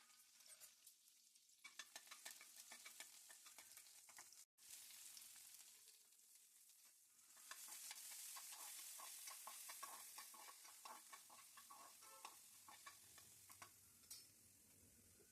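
Food frying in a pan: a faint sizzle with a utensil clicking and scraping as it stirs. The sizzle swells for a few seconds about halfway through.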